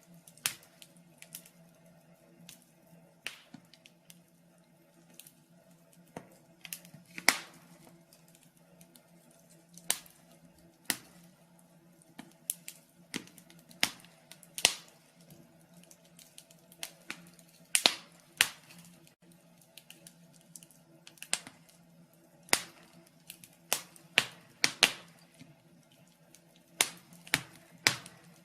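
Wood fire in a fireplace crackling: irregular sharp pops and snaps, one or two a second, some much louder than others, over a faint steady low hum.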